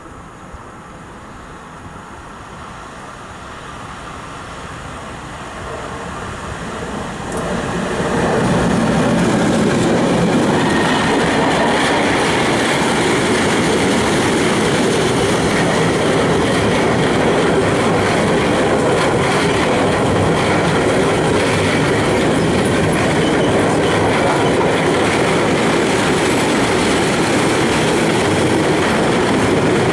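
Mixed freight train hauled by an X4EC electric locomotive approaching, growing louder over about eight seconds. Then its wagons roll steadily past close by, with the rumble and clatter of wheels on the rails.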